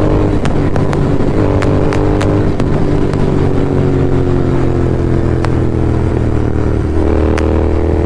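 Royal Enfield Continental GT 650's 648 cc parallel-twin engine running under way at speed. Its pitch sinks slowly through the middle and rises again near the end as the throttle is opened, with scattered sharp clicks over the top.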